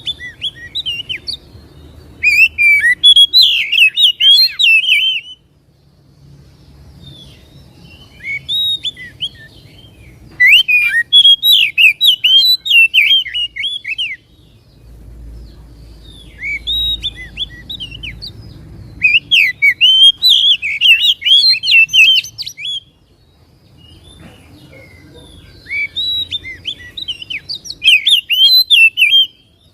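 Oriental magpie-robin singing loud phrases of rapid, varied whistled and chattering notes. Each phrase lasts two to four seconds, and a short pause separates one from the next.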